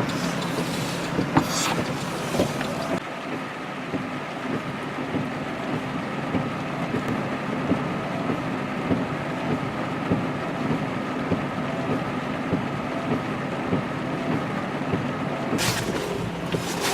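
Vehicle driving, heard from inside the cab: a steady engine drone under road noise, with a couple of brief hissing swells.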